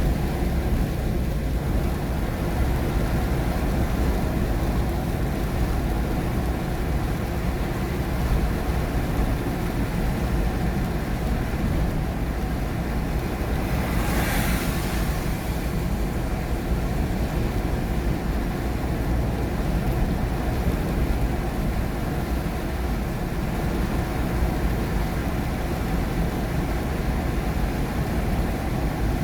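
Car driving in the rain heard from inside the cabin: a steady low rumble of tyres and road noise with the hiss of a wet road. About halfway through, a brief hiss swells and fades.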